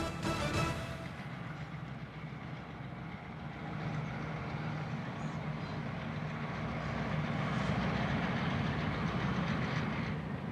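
A train running, a steady rumble with a low engine hum that grows louder over several seconds and then changes abruptly near the end; the tail of background music fades out at the very start.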